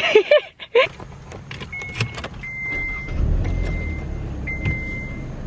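Inside a car: clicks and knocks from people getting in, then a low engine rumble builds up. A warning chime sounds over it as a string of long, even tones, about one a second.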